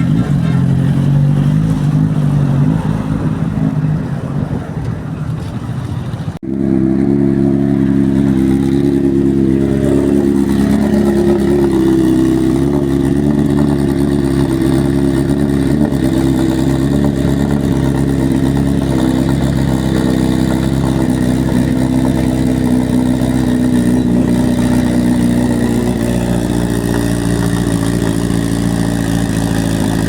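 Superbike engine running loudly. About six seconds in the sound cuts off abruptly and resumes with an engine note held at a steady pitch, as at constant revs.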